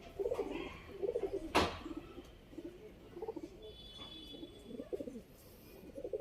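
Domestic pigeons cooing, several low warbling coos overlapping, with a single sharp click about one and a half seconds in.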